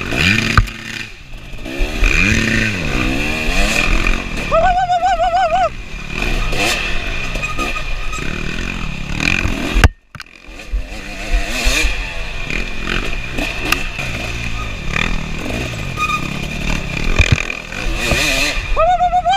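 KTM 300 two-stroke dirt bike engine revving hard and falling back over and over as the throttle is worked through tight woods, with a brief sudden break about halfway.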